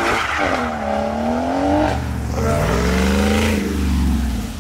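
Performance car engine revving hard as it accelerates away, its pitch falling and climbing through a couple of pulls, then dropping off near the end.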